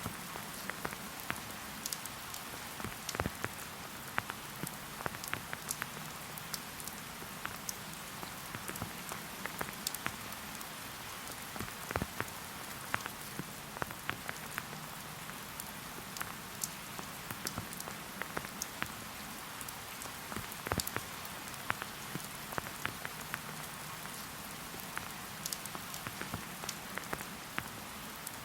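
Steady rain: an even hiss of falling rain with frequent sharp hits of individual drops close by.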